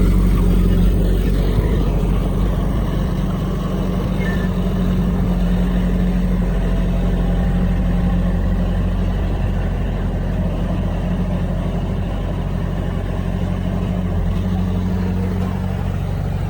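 Heavy diesel engine of an earthmoving machine running steadily with a low, even drone, dipping slightly in level about four seconds in.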